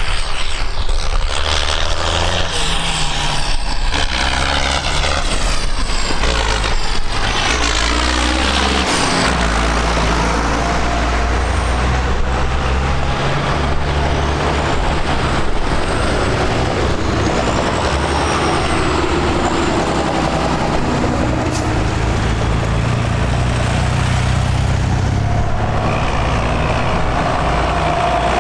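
Tractor engines running as tractors drive past in a line. Their engine notes shift as each one goes by, and the first pass is close, about a few seconds in.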